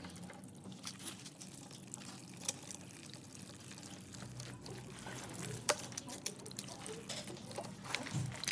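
Water pouring and trickling, with scattered small clicks and drips.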